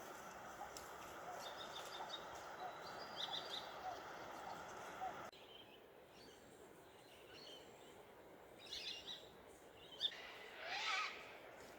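Faint bird calls and short chirps over a quiet hiss of outdoor ambience, with a brief rising call near the end.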